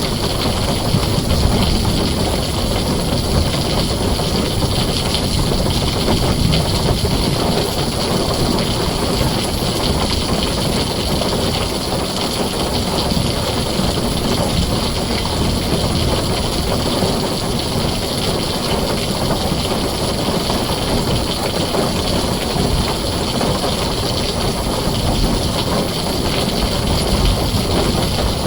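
Heavy rain drumming steadily on a tin roof, with a deep, steady low rumble underneath.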